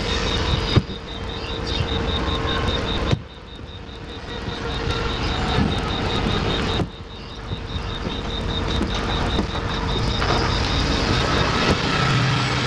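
Steady outdoor noise with traffic running, and a rapid pulsing high chirp going on behind it. The sound drops away abruptly twice, for a few seconds each time.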